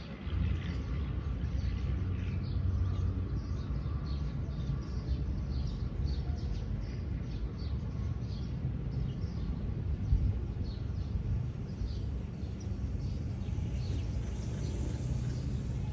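Wind blowing across the microphone with a steady low rumble, while birds chirp in many short calls throughout.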